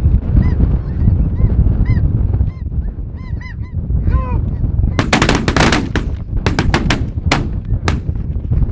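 Geese calling with repeated short honks over wind buffeting the microphone, then about five seconds in a rapid volley of shotgun shots from several guns, a tight cluster followed by scattered single shots.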